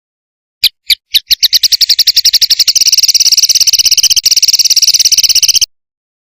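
A songbird's call: a few spaced high notes that quickly speed up into a fast, even trill. The trill cuts off suddenly near the end.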